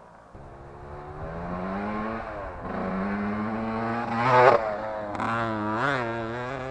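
Yamaha YZ125 two-stroke single-cylinder engine running, its pitch climbing slowly, then revved sharply twice, about four and six seconds in, the first rev the loudest.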